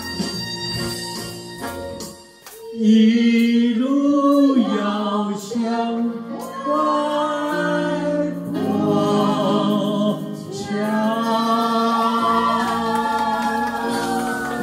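A group of voices singing a Chinese boat song in harmony over backing accompaniment. After a short instrumental stretch, the singers hold long sustained notes from about three seconds in.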